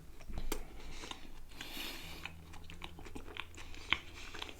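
A person chewing a mouthful of chicken kebab with rice and salad, with soft wet mouth clicks and smacks and one sharper click near the end.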